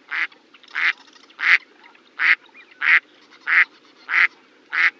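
A farm animal calling in short, evenly spaced calls, eight in a row at about three calls every two seconds.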